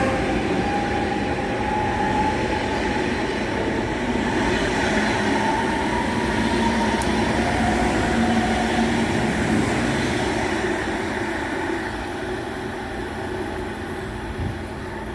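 A train running through the station: a steady rumble of wheels on rails with faint gliding motor tones, easing off near the end.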